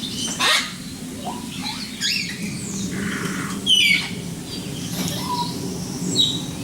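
Several birds calling: chirps, short falling whistles and a few harsh squawks, one after another, over a steady low hum in the background.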